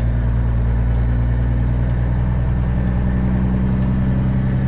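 Diesel semi-truck engine running bobtail, a steady low drone whose note shifts slightly in pitch.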